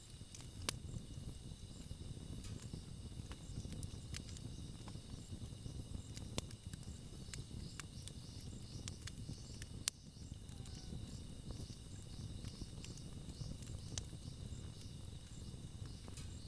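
Wood campfire burning with a dense low crackle and three sharp pops, the loudest about ten seconds in. Insects chirp steadily behind it.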